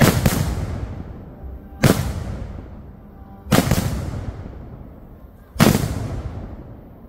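Fireworks going off in a series of loud bangs, four of them about every two seconds. Each bang is followed by a rolling echo that dies away.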